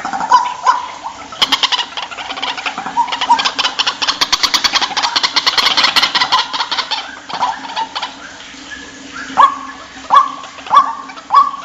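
White-breasted waterhen calling: repeated notes, then a fast chattering run through the middle, then a string of short rising calls about every half second near the end.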